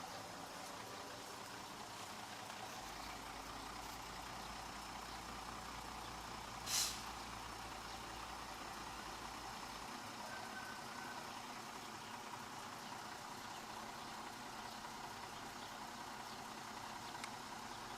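Heavy diesel engine of earth-moving machinery running steadily, with one short, sharp hiss about seven seconds in.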